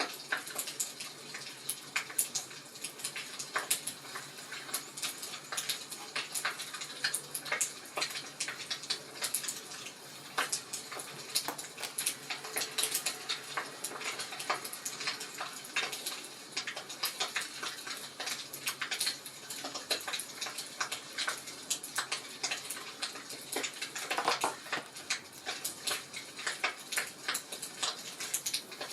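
Wood fire burning in a fireplace, crackling with many irregular sharp pops and snaps.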